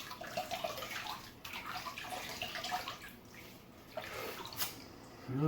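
Water splashing and trickling as a face is rinsed with handfuls of water after a shaving pass.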